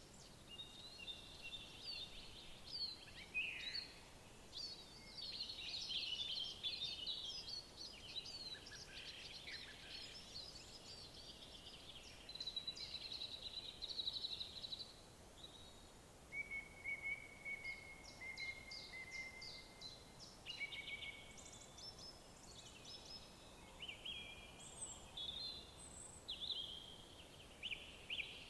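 Several songbirds singing together in overlapping phrases of quick chirps, whistles and rapid trills, over a faint steady background hiss.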